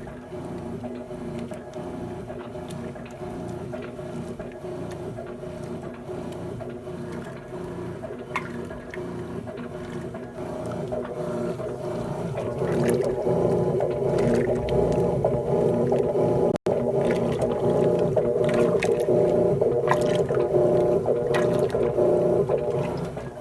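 Electrolux LT12F top-loading washing machine running its wash with water in the drum: a steady motor hum with water sloshing, getting louder about halfway through.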